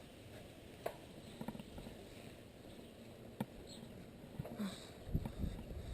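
Faint wind and road noise from a bicycle being ridden, with a couple of sharp clicks and a few low knocks near the end.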